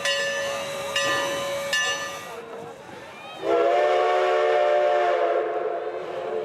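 Steam locomotive bell ringing about once a second, stopping about two seconds in. A second later comes one long blast of the steam whistle, a chord of several notes, the loudest sound here.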